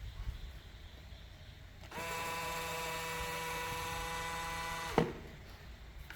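Small electric motor running with a steady high whine for about three seconds, starting abruptly about two seconds in and stopping with a click.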